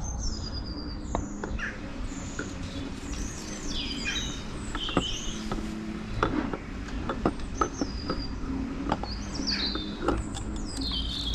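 Small birds chirping and twittering throughout, with a scatter of sharp clicks and light knocks from parts being handled, clustered in the middle of the stretch.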